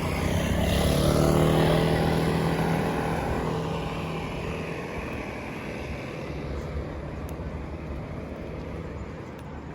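A motor vehicle passing close by on the street. Its engine and tyre noise swell to a peak about a second and a half in, the pitch dropping a little as it goes past, then fade away.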